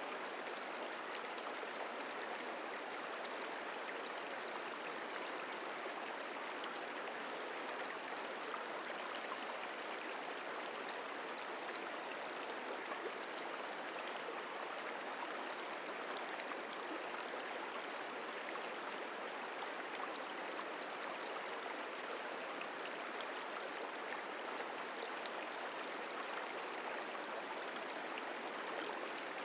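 Merced River flowing over rocks, a steady rushing and babbling of water.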